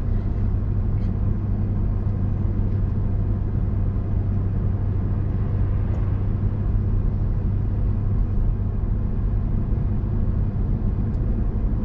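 Steady engine and road drone of a car on the move, heard from inside the cabin, with a strong low hum.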